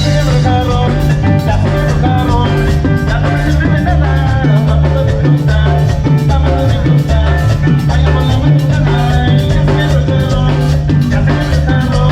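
Live cumbia band music with a steady, evenly spaced percussion beat over a strong bass line and melody, recorded through a camera's built-in microphone.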